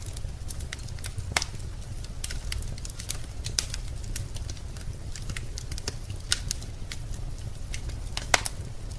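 Wood fire in a fireplace crackling, with irregular sharp pops and snaps over a steady low rumble; the loudest pop comes near the end.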